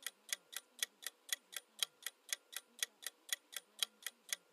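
Countdown timer's clock-tick sound effect, ticking steadily about four times a second.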